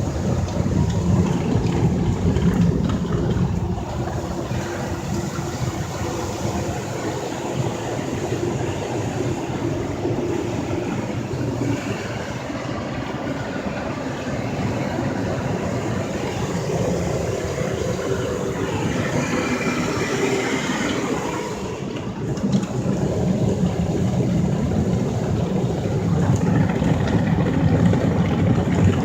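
Ryko SoftGloss XS2 automatic car wash running its brush cycle: spinning wash brushes scrubbing over the car with the machine's motors working, a steady mechanical rush with a brief dip about two-thirds of the way through.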